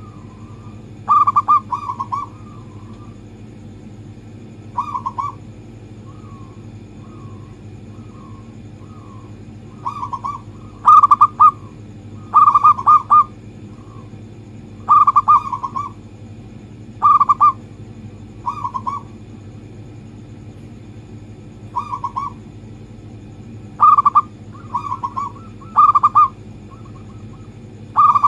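Zebra dove (local perkutut) cooing: about a dozen short bursts of quick, rolling coo notes, spaced one to a few seconds apart, over a steady low hum.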